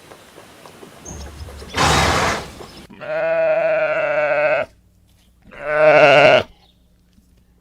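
A farm animal bleating: two long, wavering calls, the first about a second and a half long and the second shorter. A short noisy burst comes just before them.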